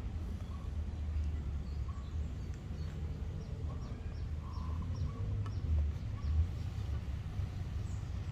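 Steady low outdoor background rumble with faint bird chirps, including a quick run of short high chirps in the middle.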